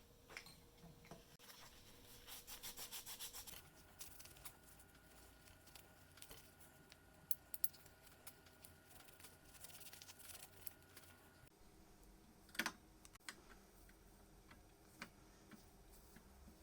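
Faint rubbing and scratching with small clicks and taps. A quick run of about a dozen rapid, even strokes comes about two seconds in, and a sharper click stands out about two thirds of the way through.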